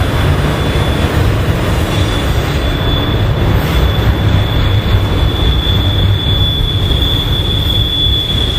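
Double-stack container cars of a BNSF freight train rolling past with a steady low rumble, and a thin, high, steady wheel squeal that comes in about two seconds in and grows louder toward the end.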